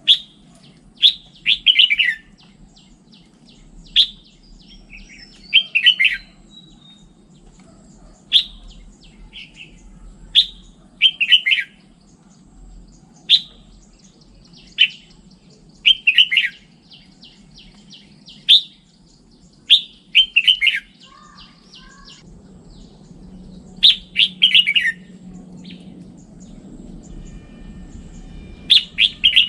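Red-whiskered bulbul singing: short, loud phrases of sharp whistled notes, each followed by quick notes sliding downward, repeated every second or two over a faint low hum.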